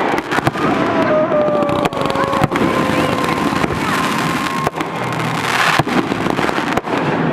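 Fireworks display going off: a dense run of bangs and crackling. Through the first few seconds two long whistling tones slide slowly down in pitch.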